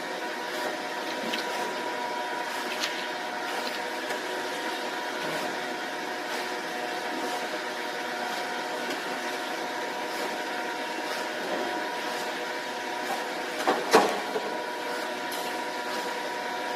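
Automatic rice-cake forming and arranging machine running: a steady machine hum with several held tones, light clicks now and then, and a louder double clack about fourteen seconds in.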